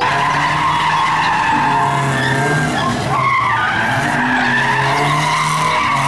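Car engines running and tyres squealing on asphalt as cars are driven in tight, sliding turns.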